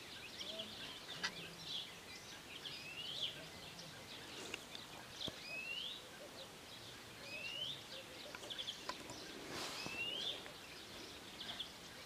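Wild songbirds calling outdoors: a short rising whistled call repeats about every two seconds, mixed with scattered higher chirps, over faint outdoor background noise.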